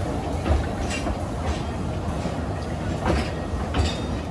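Narrow-gauge train running on the rails: a steady low rumble from the wheels with irregular clicks and clatters over the track.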